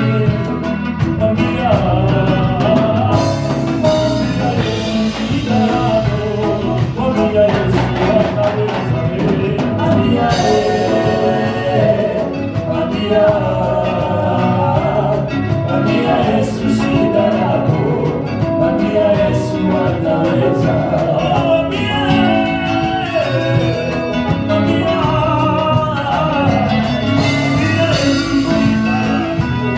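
Gospel praise music: a band playing with voices singing over it and a steady, driving beat.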